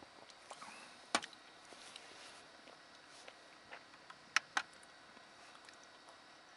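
A few sharp clicks and knocks of small objects being handled over a steady faint hiss, with two pairs of louder knocks, one about a second in and one past four seconds.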